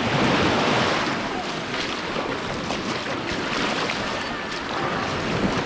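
Lake Michigan waves washing and sloshing, with wind noise on the microphone.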